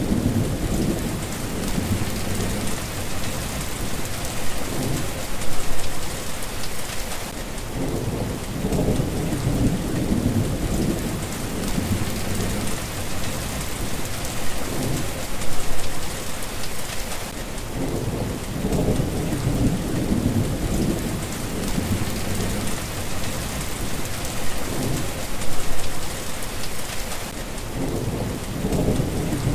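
Steady rain falling, with low rolling thunder rumbling underneath that swells and fades about every ten seconds.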